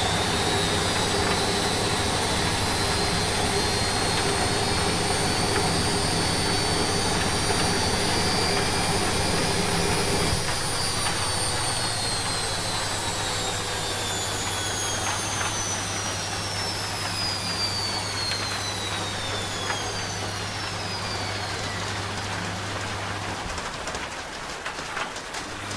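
Washing machine spin cycle winding down: a high motor whine slides steadily down in pitch as the drum slows, over an even hiss of rain. A low hum drops away about ten seconds in, and the deepest hum stops near the end.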